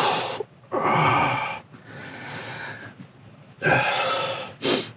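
A man breathing hard in the freezing cold: about four loud, rough breaths, one straight after the start, a longer one about a second in, and two close together near the end.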